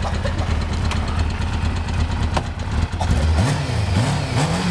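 Motorcycle engine idling steadily, then, about three and a half seconds in, revved in a string of quick throttle blips, the pitch rising and falling about once every second or less. The revving shows some hesitation.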